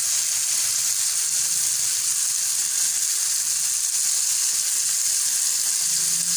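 Chopped vegetables sizzling steadily as they fry in ghee in a non-stick frying pan.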